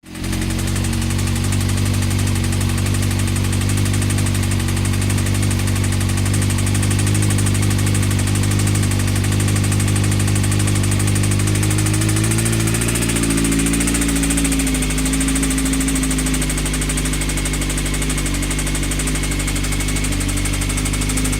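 Honda CBR motorcycle engine running with a steady knock; its note shifts a little over halfway through. The knock is the kind the owner reads as a connecting rod loose on the crankshaft, an engine that should not be run any more.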